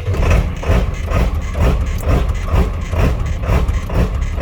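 Ford 7.3-litre turbo diesel V8 idling very roughly, the idle jumping up and down in regular surges about twice a second: the rough, jumping idle the owner calls "just bananas".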